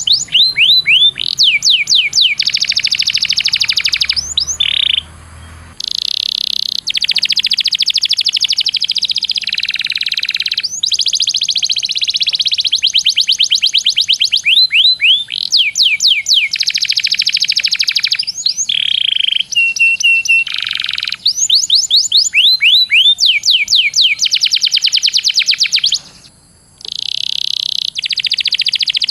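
Domestic canary singing a long, fast song of rapid trills and rolls with repeated rising sweeps. It breaks off briefly about five seconds in and again near the end.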